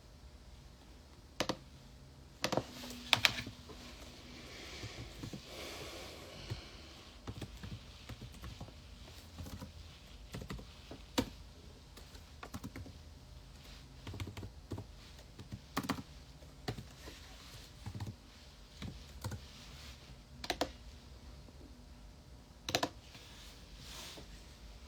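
Irregular, sparse clicks and taps of a computer keyboard and mouse, with a faint low hum underneath.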